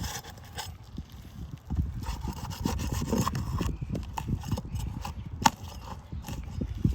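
Irregular knocks and scuffs on an asphalt shingle roof, with one sharper click about five and a half seconds in, while wind-damaged shingles are tested to see whether they can be repaired.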